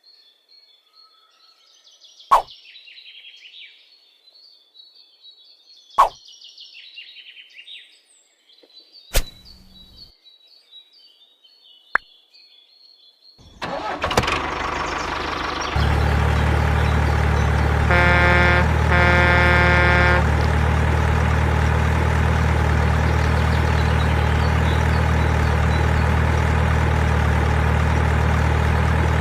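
Birds chirping with a few sharp knocks, then about halfway through an engine starts and settles into a steady running sound. Two short horn honks sound a few seconds after it starts.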